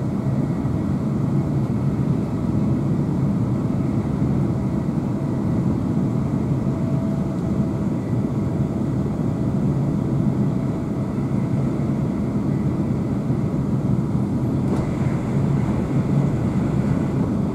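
Steady low rumble of a Class 350 electric multiple unit running at speed, heard from inside the passenger carriage: wheels on rail and running gear.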